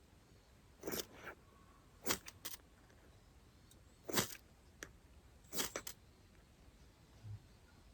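Dry wood giving a series of sharp, irregular cracks, about seven in all, from twigs and kindling being snapped or catching in a campfire being started.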